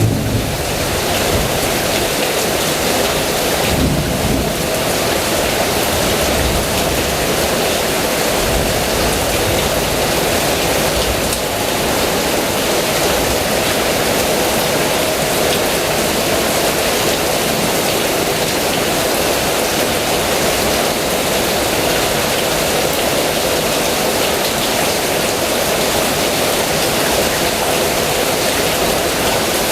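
Heavy rain falling steadily, with a low rumble of thunder about four seconds in and again around eight seconds.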